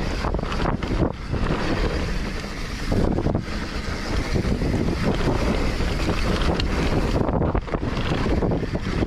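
Mountain bike riding a dirt trail: wind buffeting the camera microphone over the steady rumble of the tyres, rising and falling in gusts.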